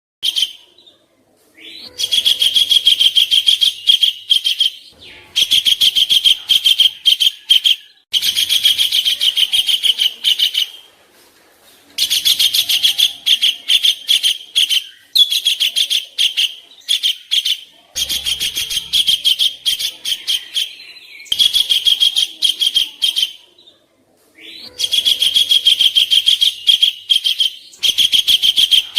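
Songbird song of harsh, very fast chattering trills, the 'kasaran' phrases of a masteran tutor recording, repeated in loud bursts of two to three seconds with short pauses between them.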